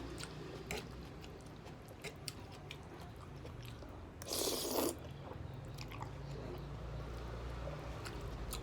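A person chewing and eating soft jajangmyeon noodles close to the microphone, with scattered wet mouth clicks over a steady low hum. A short, louder rush of noise comes about four and a half seconds in.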